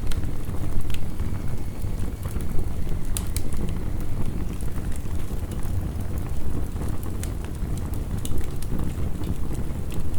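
Wood fire crackling, with scattered sharp pops, over the steady low rumble of heavy rain.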